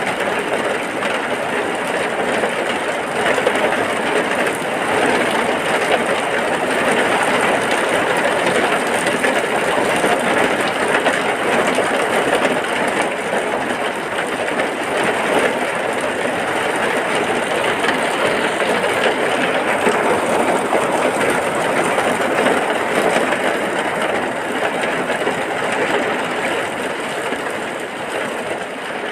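Heavy rain falling steadily: a dense, even hiss of rain with no breaks.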